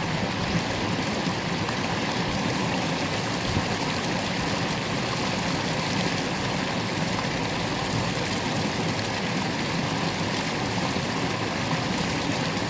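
Steady rushing of flowing water, as of a stream.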